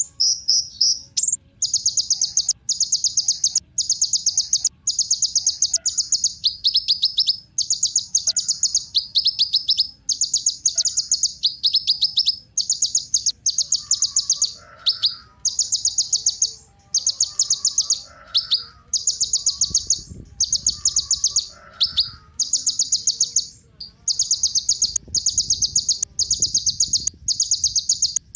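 Kolibri ninja, a sunbird, singing high, rapid trilled phrases about a second long, one after another almost without a break, some phrases made of quick falling notes.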